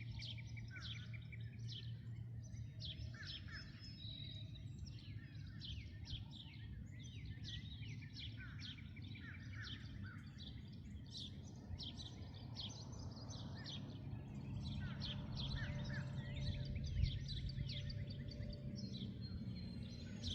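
Many small birds chirping and calling in quick, short notes, overlapping throughout, over a steady low background rumble that swells briefly in the middle.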